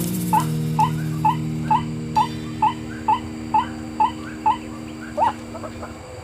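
White-breasted waterhen calling: short rising notes repeated about twice a second, growing fainter toward the end.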